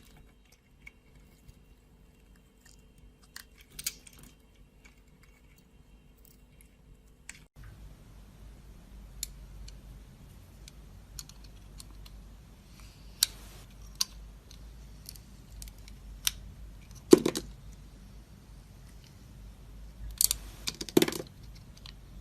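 Dry soap being cut with a knife: scattered crisp clicks and small cracks, with two louder crunchy bursts near the end.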